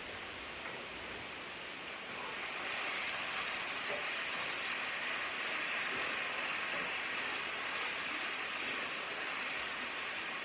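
Chicken pieces sizzling in a hot cast-iron skillet while being stirred with a spatula. The hiss gets louder about three seconds in and then holds steady.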